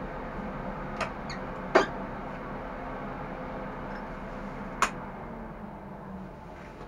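Peugeot 106 race car's engine idling steadily, heard inside its stripped cabin. Sharp knocks come about a second in, just before two seconds (the loudest) and near five seconds, while someone reaches into the cockpit.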